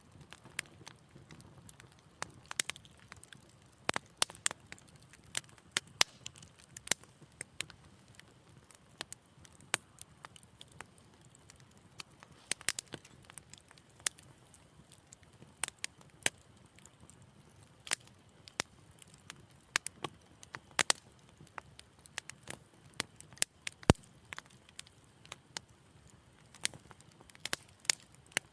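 Wood fire in a fireplace crackling, with irregular sharp pops and snaps over a faint low rumble.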